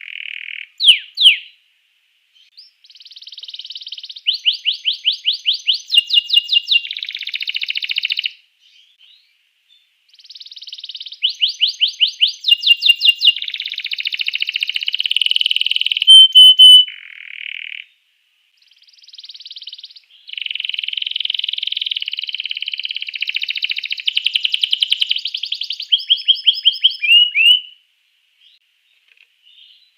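Canary singing loud, high-pitched song made of rapid trills and rolls of quickly repeated notes. It comes in several long phrases, with short pauses about 8 to 10 seconds in, around 18 seconds, and near the end. This is the full, continuous 'gacor' song used to provoke other canaries into singing.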